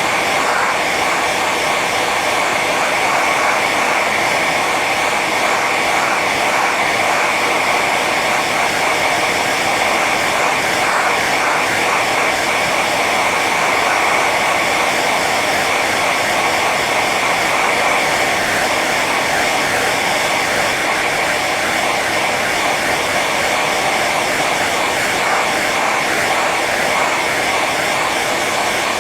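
Handheld hair dryer running steadily on its high setting: a constant rush of air with a steady whine from the fan motor.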